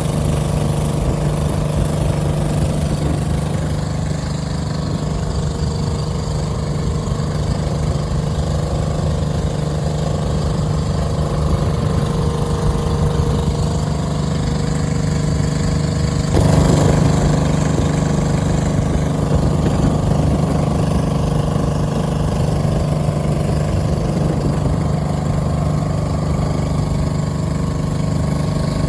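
A boat's engine running steadily, with a low, even hum and a slight step up in loudness a little past halfway.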